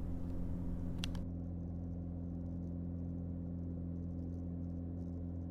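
Mooney M20J's four-cylinder Lycoming engine running steadily at takeoff power during the takeoff roll, heard as a low, even drone with a few constant tones. A faint hiss drops away about a second in.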